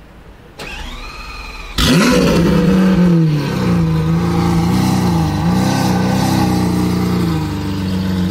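Lamborghini Aventador V12 with a Capristo exhaust being started: the starter whirs for about a second, then the engine fires with a loud rising flare and settles into a steady idle that dips in pitch now and then.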